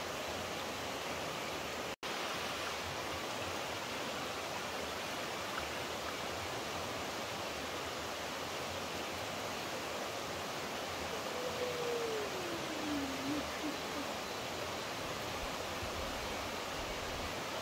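Steady rush of flowing water, as from a mountain stream or waterfall. It cuts out for an instant about two seconds in. A faint call falls in pitch about eleven seconds in.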